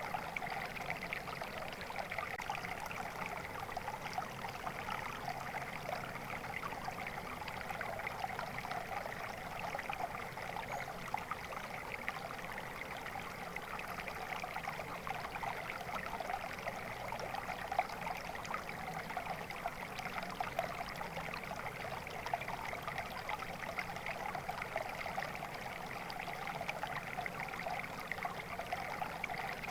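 Flowing water in a stream, a steady, continuous babble and trickle with no pauses.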